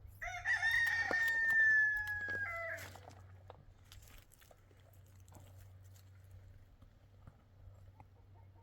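Rooster crowing once, a single crow lasting about two and a half seconds, followed by faint scattered clicks.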